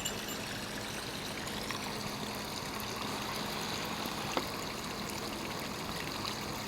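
Steady rush of running water in a mountain stream.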